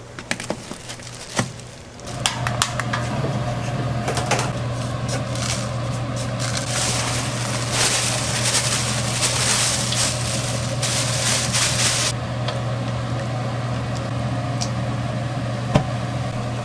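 A motor-driven machine switching on about two seconds in and running with a steady low hum, with a stretch of hissing in the middle, after a few light clicks.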